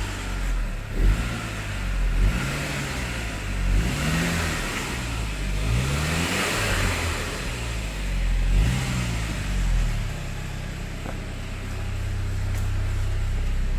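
Saab 9-5's 2.0-litre turbocharged four-cylinder engine being blipped, revving up and dropping back about seven times in quick succession, then settling to a steady idle near the end. The sound comes through its newly refitted exhaust.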